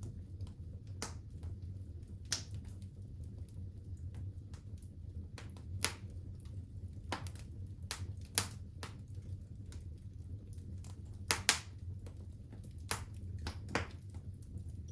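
Wood fire crackling in a fireplace: irregular sharp pops and snaps, a few louder ones standing out, over a steady low rumble of the burning fire.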